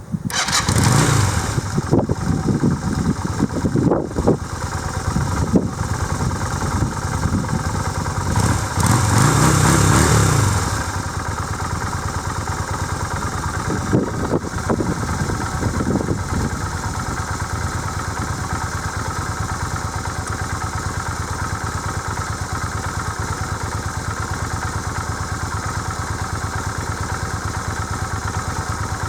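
Yamaha Virago V-twin motorcycle engine starting up and being blipped several times, with one longer rev near the middle, then settling into a steady idle.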